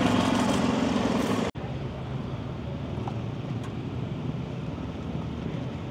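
A motor vehicle engine running steadily and loudly, cut off abruptly about a second and a half in. A quieter, steady vehicle rumble follows.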